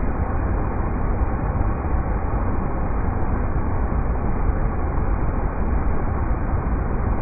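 River rapids rushing steadily: an even, unbroken wash of water noise, heaviest in the deep low end and muffled, with no highs.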